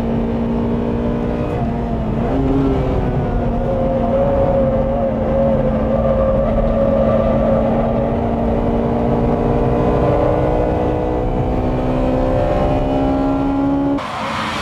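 Honda Integra Type R four-door's B18C four-cylinder VTEC engine heard from inside the cabin, running at high revs under hard driving. The pitch dips briefly about two seconds in, then climbs slowly and steadily. Just before the end the sound switches abruptly to trackside.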